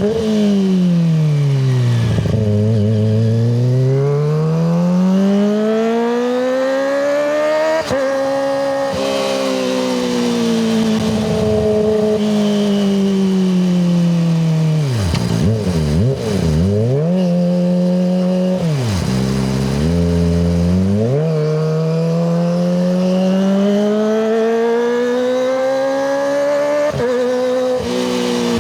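Kawasaki ZX-25RR 250 cc inline-four running through a Yoshimura Hepta Force exhaust, its revs rising and falling in long smooth sweeps. The pitch jumps abruptly a couple of times and drops low for a stretch in the middle.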